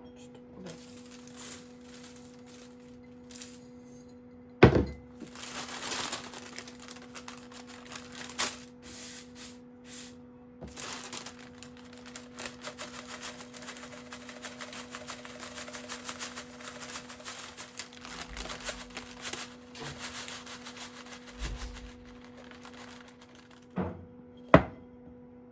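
Dried herb sprigs being handled: a long stretch of rustling and crackling, with a sharp knock about four and a half seconds in and another near the end, over a steady electrical hum.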